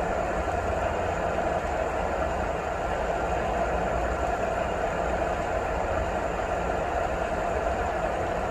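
Steady rain, an unbroken even hiss with a low rumble underneath.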